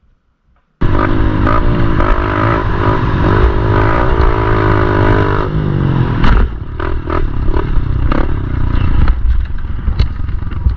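Pit bike engine revving up and down as it is ridden, cutting in suddenly about a second in. About six seconds in there is a loud thump, followed by rattling and clattering over the engine.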